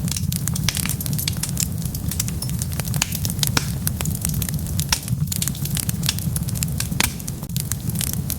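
Wood fire crackling: dense, irregular sharp crackles over a steady low rumble.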